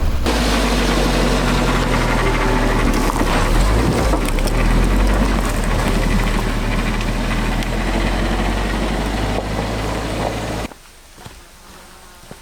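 An engine running steadily with a low hum, which cuts off suddenly near the end, leaving a much quieter background with a few light knocks.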